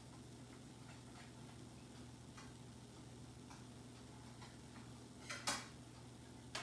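Faint, irregular light clicks and taps over a low steady hum, with one louder, longer scraping tap about five seconds in.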